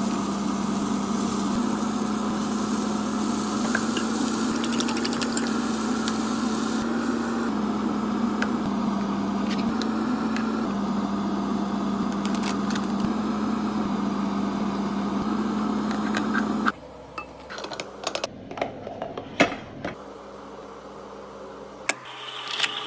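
Microwave oven running with a steady hum, which stops abruptly about three-quarters of the way through. A few sharp clicks and knocks follow.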